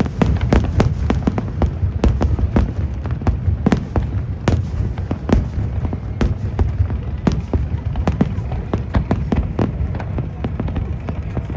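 Fireworks display: a rapid, continuous stream of sharp bangs and crackles, several a second, over a steady low rumble.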